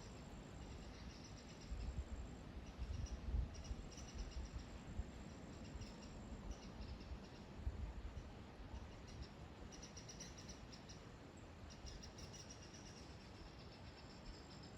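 High-pitched chirping calls from a small animal, given in short rapid trains every second or so, over a thin steady high tone and a low uneven rumble.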